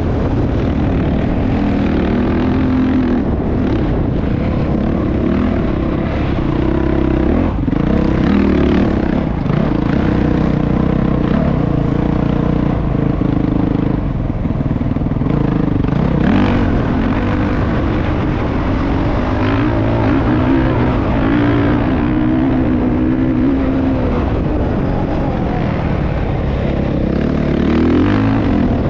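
Motocross motorcycle engine running continuously, its pitch rising and falling with the throttle.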